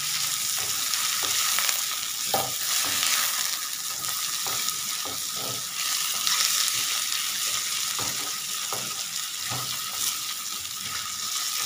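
Raw chicken pieces and sliced onions sizzling in hot oil in a karahi, stirred with a wooden spatula that scrapes and knocks irregularly against the pan.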